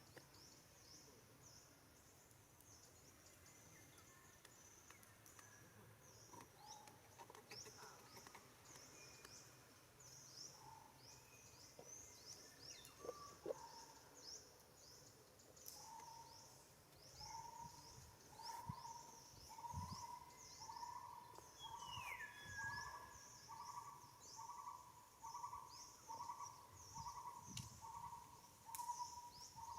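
Faint outdoor ambience of birds and insects: a dense high chirping throughout. From about halfway, a short mid-pitched call repeats a little under twice a second, and one falling whistle sounds near the middle.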